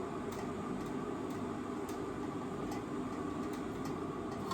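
Steady hiss and hum of water heating in an electric tea maker, with a few faint ticks scattered through it.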